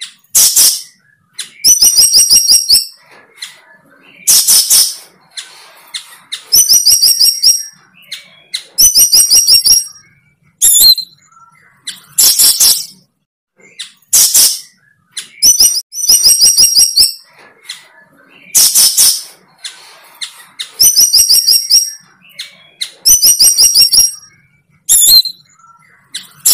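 A bird calling loudly and over and over. Each call is a short noisy burst, then a quick run of high, clear notes, repeating about every two seconds.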